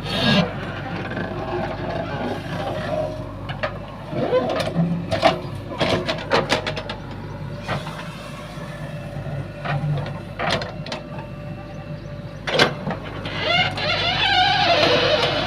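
JCB 3DX backhoe loader's diesel engine running steadily, with several sharp knocks from the machine at work.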